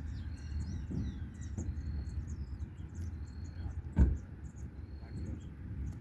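Small birds chirping and calling in quick short notes and whistles over a steady low rumble, with a single sharp thump about four seconds in.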